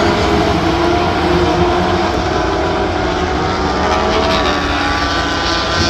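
Sport truck race engines running on the track, several engine notes overlapping and rising and falling in pitch.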